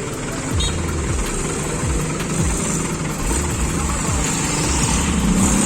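Heavy truck engine running under load, revs rising and falling over and over during a cable-tow recovery of a bogged sugarcane truck. The wheels are slipping in the soft ground and it has not yet come free.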